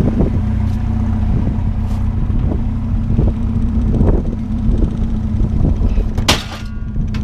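A vehicle engine running steadily with a low hum. Just after six seconds in there is a brief sharp noise.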